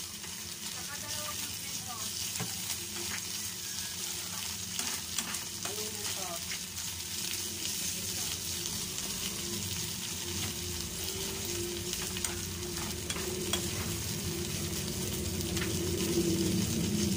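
Alamang (shrimp paste) sizzling as it fries in an aluminium pan, with a metal spoon stirring it and scraping the pan in many small clicks and scrapes.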